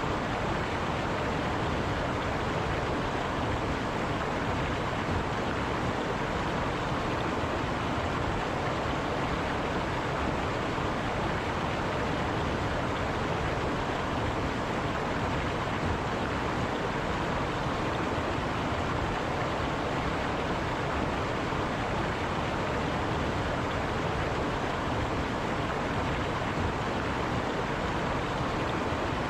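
A river flowing steadily over rocks, a continuous rushing of water.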